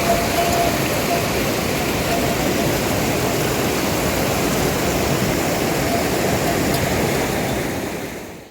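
Steady, loud rush of water with no rhythm or pitch, fading away over the last second.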